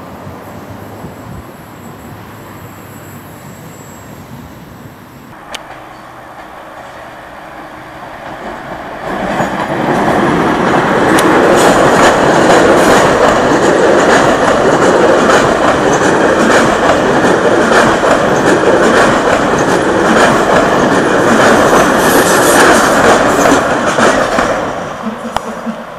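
Double-deck TGV high-speed train passing close by, a loud rolling rumble with rapid wheel clatter over the rail joints. It swells in about eight seconds in, stays loud for some fifteen seconds, and falls away near the end.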